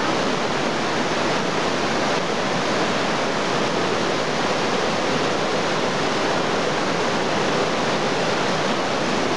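Waterfall close by, a steady, even rush of falling water.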